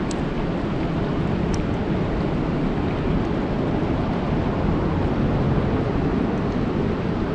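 Steady rain falling on a lake: a dense, even hiss with a heavy low rumble, and a few faint sharp ticks of single drops.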